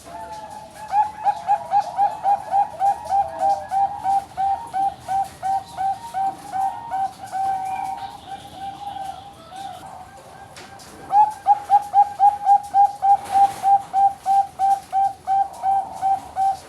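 Bangkok-bred perkutut (zebra dove) singing its rapid cooing song, a long run of short, evenly spaced notes at about three a second. It gives two phrases: the first fades about halfway, and the second starts louder a few seconds later.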